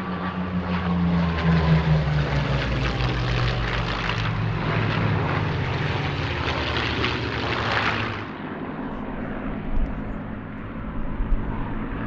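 Piston-engined WW2 fighter flying past low and fast, its engine note dropping in pitch as it goes by. The loud propeller and engine rush cuts down sharply about eight seconds in, leaving a quieter, more distant drone.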